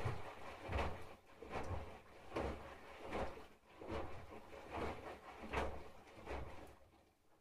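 Candy GrandO Plus front-loading washing machine drum tumbling a small load of two shirts in water: a swish and soft thud a little more than once a second as the load lifts and drops. The tumbling slows and stops near the end.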